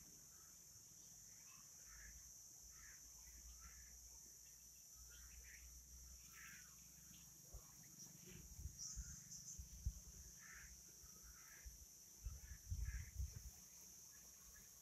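Faint outdoor quiet with birds calling in short, repeated chirps over a steady high hiss. Low rumbles and thumps come in from about eight seconds in.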